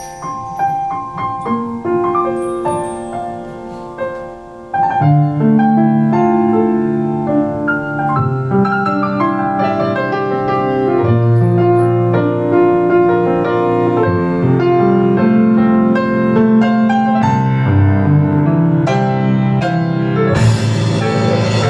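Piano playing live: a quieter passage of notes that jumps about five seconds in to a loud, full passage with low bass notes. A wash of hissy noise joins near the end.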